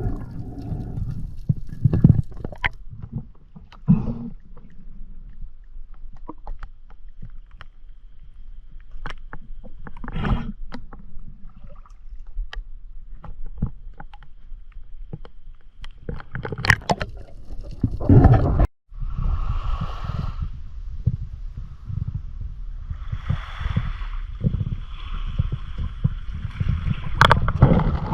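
Water sloshing and gurgling with scattered knocks and clicks; the sound cuts out for a moment about two-thirds of the way through, then a steady hiss joins the low rumble.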